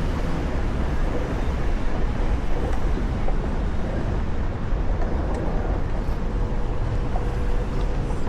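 Steady wind rumble on the microphone with rolling road noise from a moving Onewheel electric board. A faint steady hum joins in about five seconds in.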